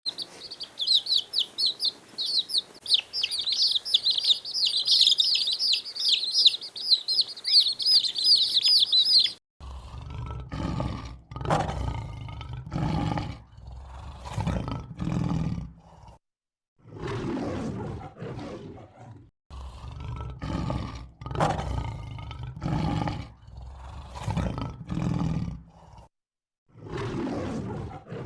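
A bird chirps rapidly and without pause for about nine seconds, then cuts off. A large animal then gives a long series of short, low calls, each about a second long, separated by brief pauses.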